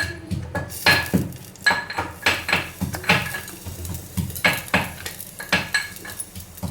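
Metal spoon clanking and scraping against a cooking pot while stirring, with irregular sharp knocks about one or two a second.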